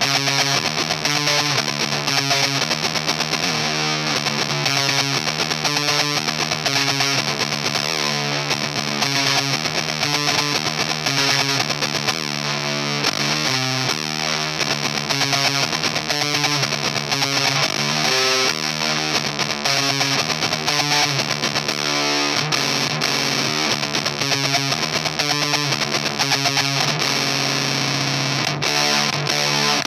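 Baritone electric guitar played through an EarthQuaker Devices Erupter fuzz pedal turned up to about 75%, playing a heavily fuzzed riff.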